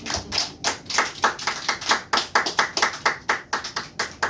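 A small audience clapping by hand at the end of a song, with distinct separate claps about five a second.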